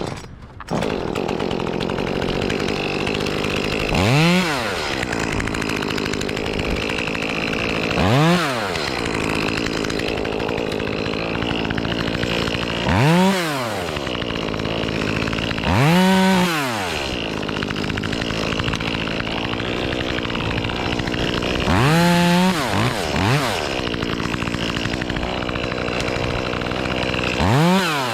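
Echo CS-2511T top-handle climbing chainsaw, a small two-stroke, idling with six short bursts of throttle, each revving up and dropping back within about a second, as limbs are cut.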